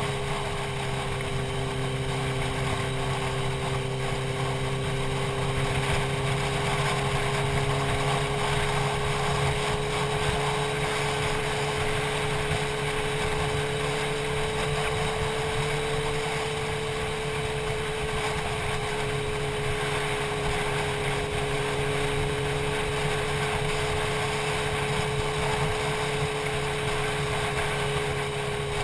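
Motorcycle engine running at a steady cruising speed, its pitch rising a little through the middle and easing back, over a steady rushing noise.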